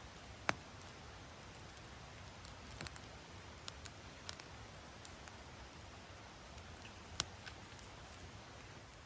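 Wood fire crackling: two sharp pops, one about half a second in and one near the end, with a few smaller crackles in between over a low steady hiss.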